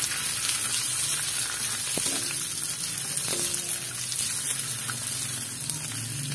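Fish cake strips, sliced onion and garlic sizzling in hot oil in a metal wok, stirred with a wooden spatula, with a couple of sharp knocks of the spatula against the pan about two and three seconds in.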